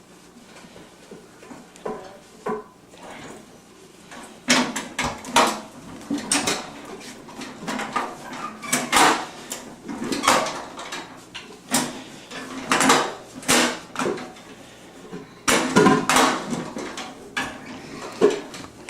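Irregular knocks and clatters of hard objects being handled, sparse at first and busier from about four seconds in.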